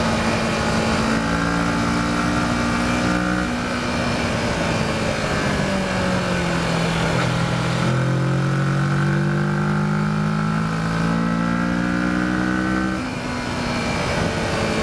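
Kawasaki Versys motorcycle engine running under way, its pitch shifting as the rider works the throttle and gears: a short dip a few seconds in, a sag to its lowest about halfway through, then a steady climb that drops off again near the end, with wind rush underneath.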